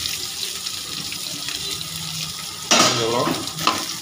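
Steady sizzling hiss of shallots, garlic, ginger, chillies and greens frying in oil in a large steel pan.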